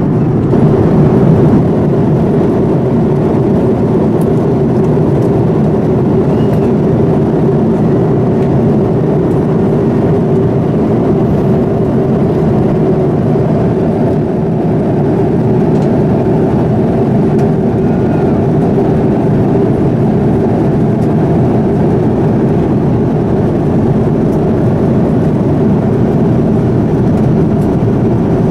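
Steady cabin noise of a Boeing 787-9 airliner in flight: a constant rush of engine and airflow, deep and even, with no change in pitch or level.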